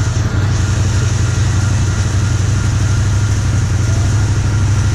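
John Deere 7720 combine's engine and threshing machinery running steadily: a constant low drone with an even hiss above it.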